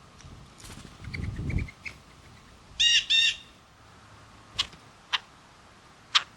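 A bird gives two loud, harsh calls in quick succession about three seconds in, after a brief rustle. Three short, sharp ticks follow.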